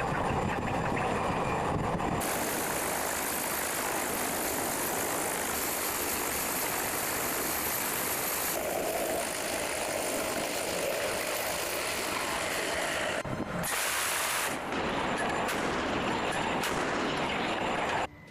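Loud, steady rushing roar of vehicle or engine noise, with abrupt changes in its character a few times, cutting off sharply near the end.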